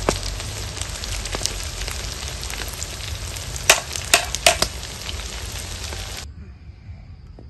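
Slices of ansam (Cambodian sticky rice cake) deep-frying in hot oil in a metal wok: a steady sizzle, with a few sharp pops of spitting oil about halfway through. The sizzle cuts off suddenly near the end.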